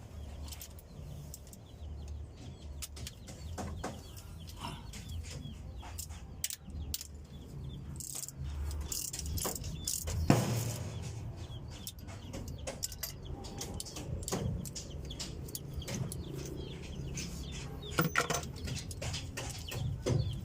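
Hand tools clinking and knocking against metal engine parts during disassembly of an Isuzu 4BC2 diesel's top end, in short irregular strikes with a louder knock about halfway through. Birds call in the background.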